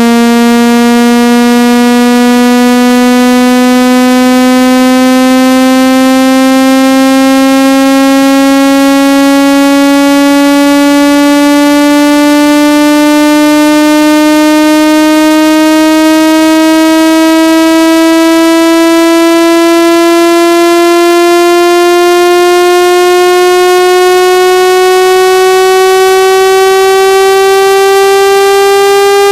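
Loud synthesized buzzing tone with many overtones, sliding slowly and evenly upward in pitch: a water-ejection sweep meant to shake water out of a wet phone or earphone speaker.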